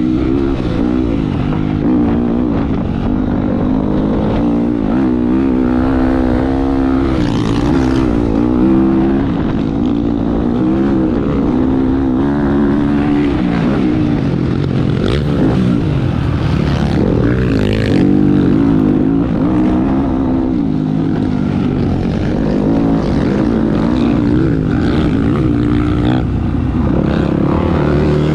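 Motocross bike engine revving hard and backing off over and over, its pitch rising and falling many times as the throttle opens and closes, heard loud and close from the bike.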